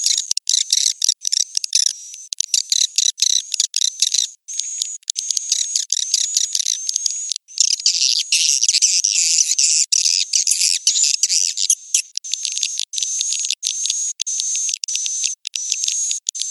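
Swiftlet lure track: dense, high-pitched twittering and chattering calls of edible-nest swiftlets, with a repeated chirp about twice a second in the second half. Such tracks are played to draw swiftlets in to roost and nest.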